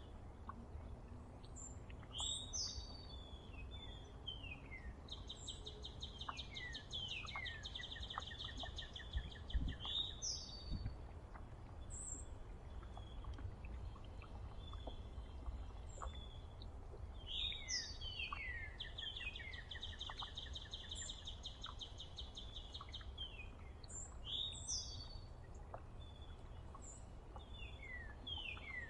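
Several songbirds calling: repeated short calls that slide steeply down in pitch, mixed with stretches of fast trilled chatter, over a steady low rumble. A single sharp knock about ten seconds in.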